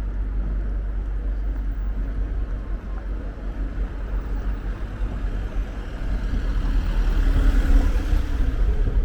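City street ambience with a deep, steady rumble and a motor vehicle passing close by. It grows loudest about seven to eight seconds in and then eases off.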